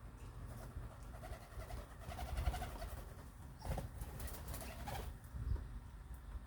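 Birds calling, with a short, low, steady call about two seconds in. A couple of sharp knocks follow in the middle, over a low rumble.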